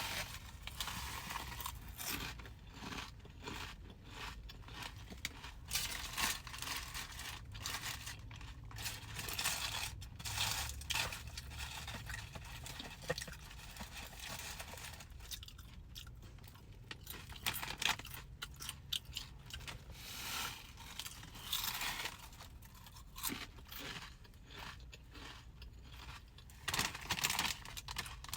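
Close-miked eating: irregular chewing and crunching with scraping and rustling sounds, over a faint low steady hum.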